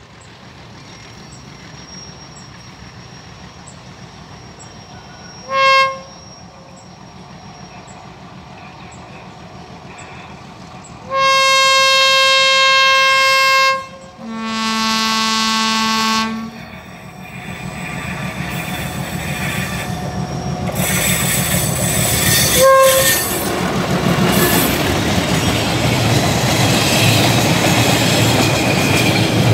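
Diesel locomotive horn of an approaching freight train: a short blast about six seconds in, a long steady blast a few seconds later, then a lower-pitched blast right after it. The train's rumble then builds and the container wagons run past with a loud clatter of wheels on rails, broken by one more short horn toot.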